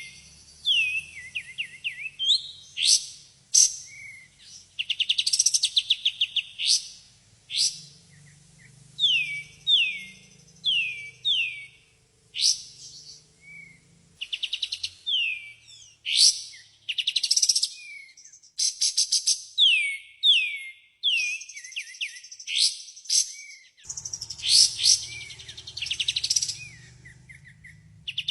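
Small songbird chirping and singing, the kapas tembak of Indonesian bird keepers, played as a lure song. Short falling whistled notes alternate with fast rattling trills, repeated phrase after phrase.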